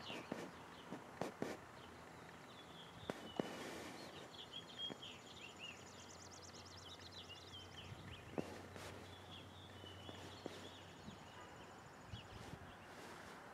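Faint birdsong: small birds chirping and twittering, with a fast high trill for a couple of seconds midway. A few soft clicks are scattered through it.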